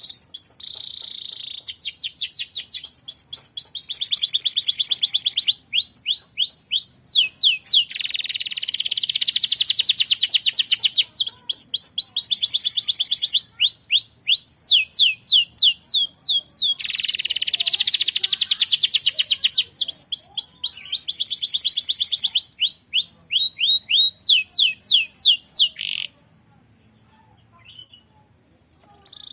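Domestic canary in full song: long runs of rapid, evenly repeated high notes, each run switching to a new trill pattern every second or two. The song stops abruptly about 26 seconds in.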